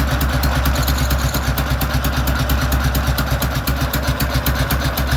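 K-750 motorcycle's flat-twin side-valve engine idling steadily with an even firing beat, running on a CDI ignition unit taken from a Chinese scooter.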